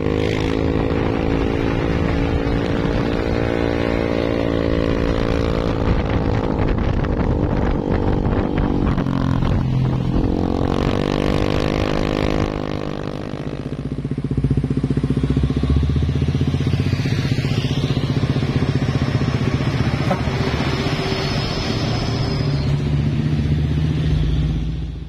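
Vehicle engines in passing road traffic, a motorcycle engine prominent, with engine notes that rise and fall in the first half and settle into a steadier low hum in the second half.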